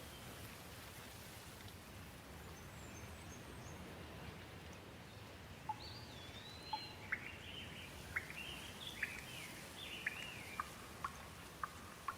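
Steady hiss of gentle rain. From about six seconds in, a bird sings a run of short, sharp, sweeping whistled notes over it.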